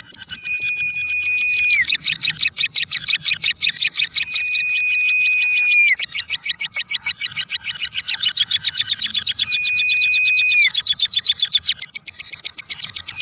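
Lovebird 'ngekek': a long unbroken chatter of rapid high chirps, about eight a second. Three times, a steady whistle-like tone is held for over a second and drops in pitch at its end.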